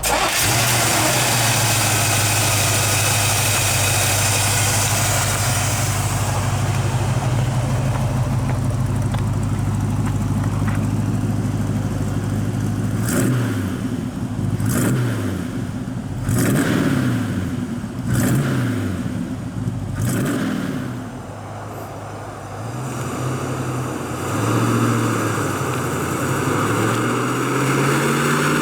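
1965 Chevrolet El Camino's 327 cubic-inch V8 running steadily, then revved about five times midway, each rev rising and dropping back, before settling to a steady run again.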